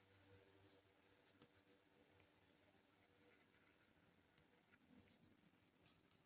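Faint, irregular scratching strokes of a drawing tool on paper while a simple bird is drawn, heard over a very quiet room hum.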